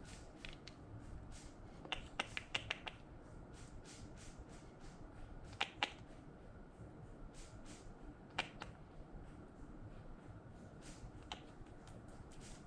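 Slime being worked by hand, giving off small sharp clicking pops: a quick cluster about two seconds in, a double pop near six seconds, then single pops.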